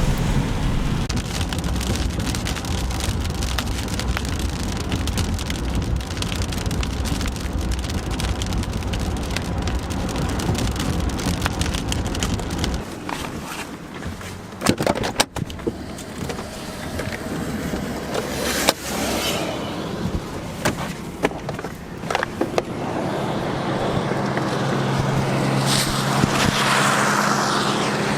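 Car driving on the road: steady tyre and road noise with a deep rumble. About halfway through the rumble drops away, a few sharp clicks and knocks follow, and then a steady low hum sets in.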